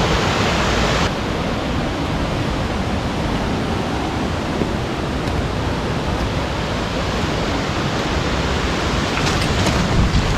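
Steady rushing of water in a rain-swollen creek running over rocks. Its tone shifts slightly about a second in, and a few faint knocks come near the end.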